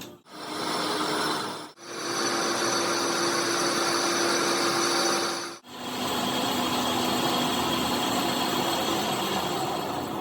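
A power tool running steadily, its sound broken off abruptly three times for a split second, with its pitch a little different after each break.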